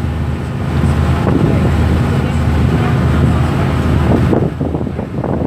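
Water taxi's boat engine running steadily with a low hum, with wind rushing over the microphone; the hiss eases about four seconds in.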